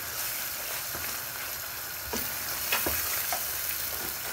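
Spiced onion, tomato and yogurt masala sizzling in a stainless steel pan as it is stirred with a wooden spoon. There is a steady frying hiss, with a few short scrapes and knocks of the spoon against the pan a little past halfway.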